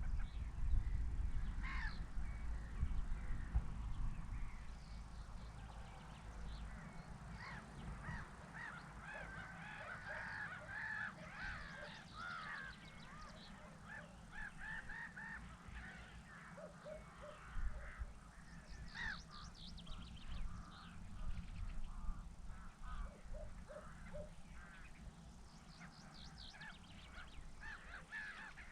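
A flock of birds calling: a dense stream of short, overlapping calls, busiest about ten seconds in, over a low rumble that is strongest in the first few seconds.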